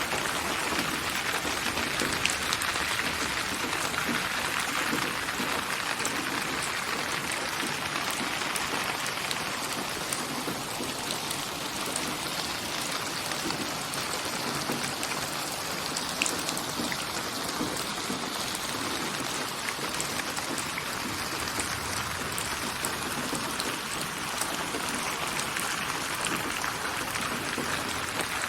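Steady rain, a even wash of falling water with individual drops heard as fine scattered clicks, swelling and easing slightly in level.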